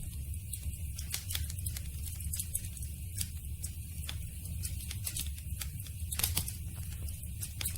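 Campfire burning: irregular crackles and pops over a steady low rumble, with one louder pop about six seconds in.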